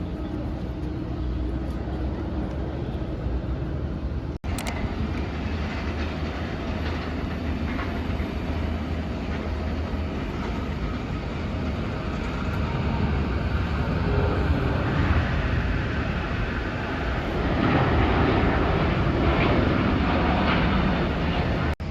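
Steady running noise of a vehicle, louder over the last several seconds, broken twice by a sudden momentary dropout.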